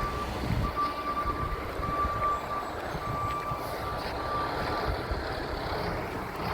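Garbage truck's backup alarm beeping, a single steady tone in beeps about a second long with short gaps, stopping about four and a half seconds in. A low rumble and wind noise run underneath.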